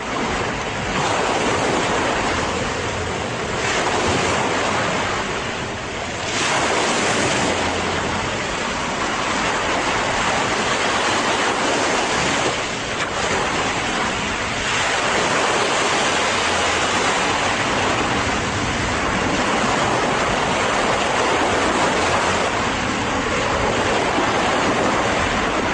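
Ocean waves breaking on a beach, a steady wash of surf that swells and eases every few seconds.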